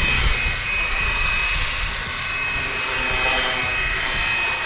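Fly Wing BO 105 electric RC scale helicopter in flight, its motor and rotor giving a steady high whine over a rushing hiss.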